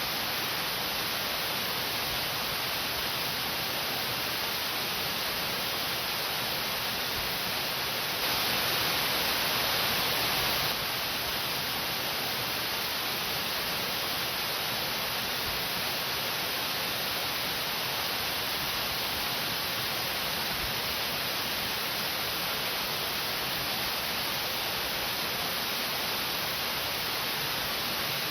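Waterfall running down a rock face, a steady rushing of water that rises a little for a few seconds about eight seconds in.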